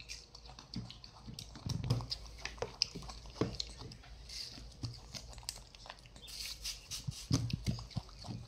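Wet chewing and biting of juicy watermelon chunks by a baby monkey and a toddler: irregular smacking clicks and soft crunches.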